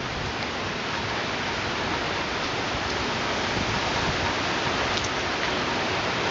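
Steady rushing noise of wind and rain from a hurricane feeder band, growing slightly louder.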